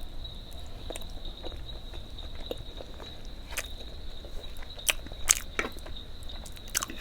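Close-up eating sounds: a person chewing food, with scattered wet smacks and crisp clicks of the mouth, thicker in the second half.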